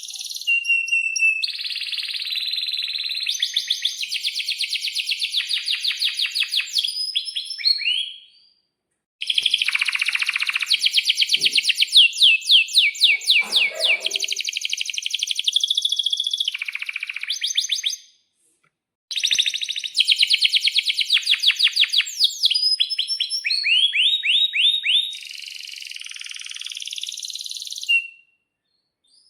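Domestic canary singing long, loud song phrases of rapid trills and quick repeated chirps, high-pitched. There are three phrases, broken by two short silences about eight and eighteen seconds in.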